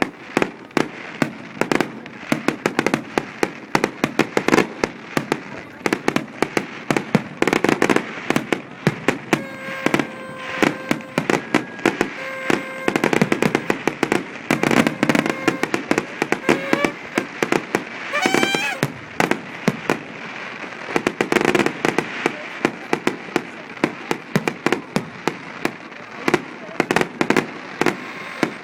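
Fireworks and firecrackers going off without pause, many sharp bangs a second in a dense crackling barrage. A rising whistle cuts through about two-thirds of the way in.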